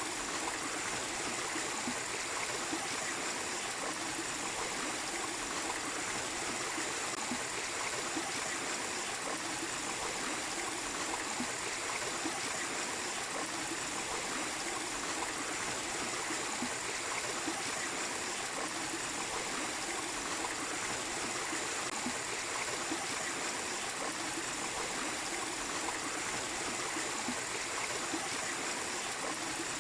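Small waterfall splashing and running steadily, an even, unbroken wash of flowing water.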